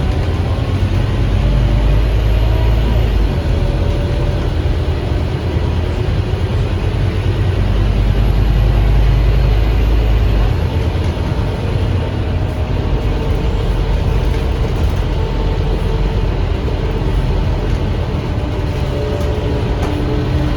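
Scania DC9 five-cylinder diesel engine of an articulated Scania K310UA bus, heard from on board while the bus is driving, with a heavy low drone that eases off about ten seconds in.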